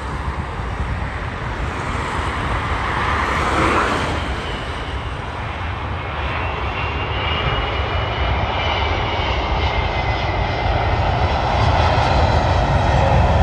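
Jet airliner's engines passing: a steady rushing rumble that grows louder, with a faint high turbofan whine in the middle.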